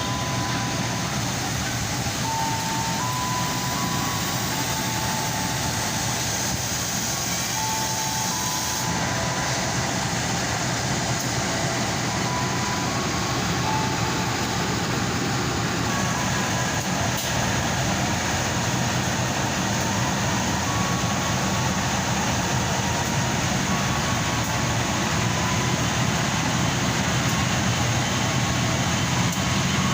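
A train running through the station with a steady rumble. Short, level high tones come and go throughout.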